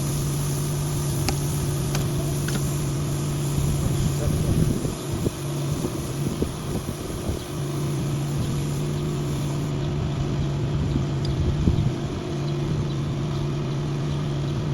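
An engine running steadily with a constant low hum, which gives way twice to rougher, uneven noise, about four seconds in and again near twelve seconds.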